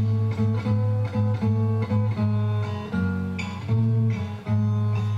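Acoustic guitar playing an instrumental bridge between verses of a song, notes plucked and strummed in a steady rhythm over a bass line.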